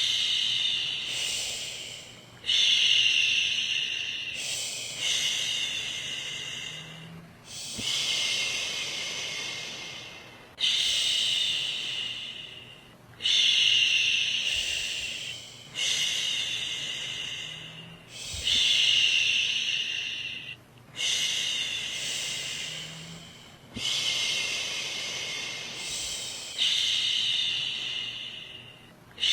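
A woman shushing, a long soothing "shhh" to settle a baby to sleep, repeated every two to three seconds. Each shush starts sharply and fades away.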